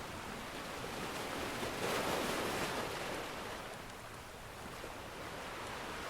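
Ocean surf: a wave swells and breaks about two seconds in, then washes out and fades before the next one builds near the end.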